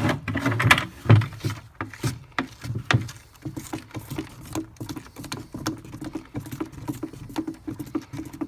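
A stick stirring and scraping two-part expanding foam by hand in a mixing container, with irregular knocks and scrapes against the container's sides.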